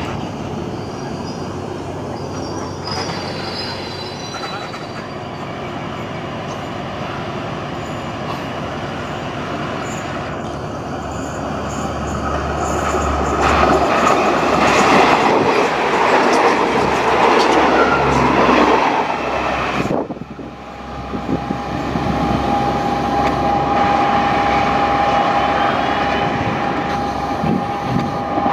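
Passenger coaches of a Thai local train rolling past with steady wheel noise and brief high wheel squeal, then a diesel railcar running in alongside, the loudest part. About two-thirds of the way through the sound cuts to a diesel railcar approaching with a steady whine.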